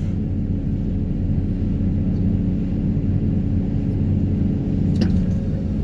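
Excavator diesel engine running steadily at a low, even pitch, with a short sharp knock about five seconds in.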